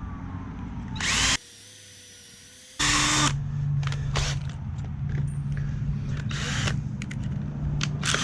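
Power drill with a 1/8-inch bit boring pilot holes into a 2x4: two short loud bursts about one and three seconds in, then the drill runs steadily with scattered clicks.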